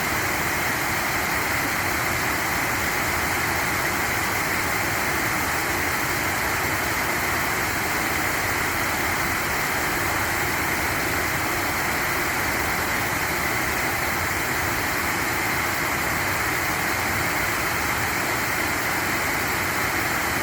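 Steady rushing of flowing stream water, an even noise with no breaks or changes.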